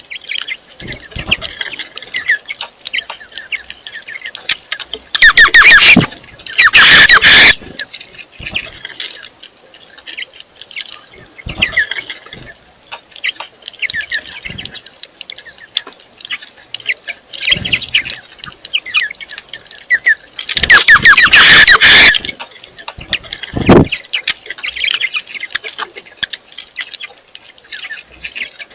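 Several birds chirping rapidly and without a break. Loud, harsh squawking breaks out about five seconds in, again around seven seconds, and once more about twenty seconds in.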